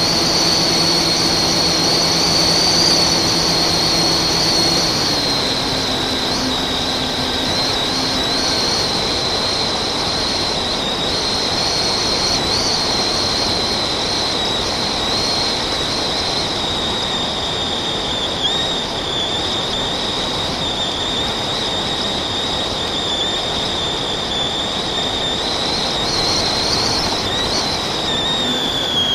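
FPV quadcopter's brushless motors and propellers whining in flight: a loud, high, continuous whine whose pitch wavers and dips slightly with the throttle, over a rush of propeller and air noise.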